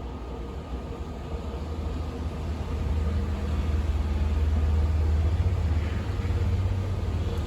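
Snowstorm wind blowing with a low rumble, swelling into a stronger gust a few seconds in and easing off near the end.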